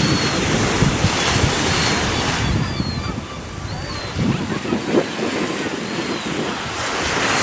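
Waves washing on the shore, swelling and easing, with wind gusting on the microphone. A few brief high bird calls come through about once every second or two.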